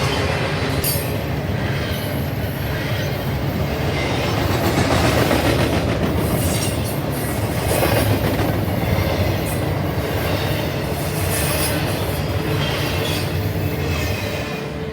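Freight train cars rolling past close by, with a steady low rumble, wheels clattering on the rails and brief high wheel squeals now and then.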